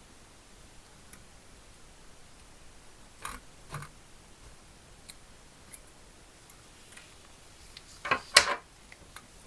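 Scattered light clicks and taps of small parts and hand tools being handled during a restoration. Two knocks come around three and a half seconds in, and a short, louder clatter of sharp knocks comes near the end.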